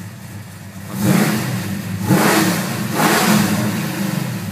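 1969 Plymouth Road Runner's 512 cubic-inch stroker RB big-block V8, breathing through headers, an H-pipe and Dynomax Super Turbo mufflers, idling and then revved three times in quick succession, about a second apart. Heard from inside the car's cabin.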